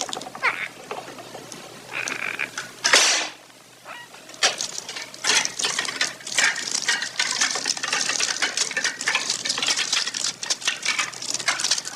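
A bird pecking at its food: quick runs of small clicks and taps, with a few short chirps.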